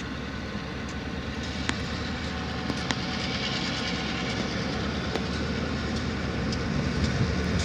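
Slow freight train rolling by, a steady rumble with a few sharp clicks from the wheels on the rails.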